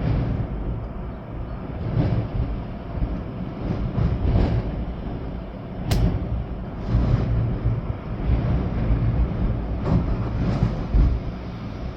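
Storm-force wind gusting and buffeting the microphone with a deep rumble that swells and eases every second or two, over a steady hiss of rain. A single sharp tick about six seconds in.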